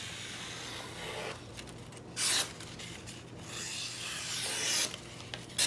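Bark River Manitou knife blade slicing through receipt paper in several strokes, a hissing rasp with a louder cut about two seconds in and another near the end. These are sharpness-test cuts, including push cuts, from a new edge that cuts fine.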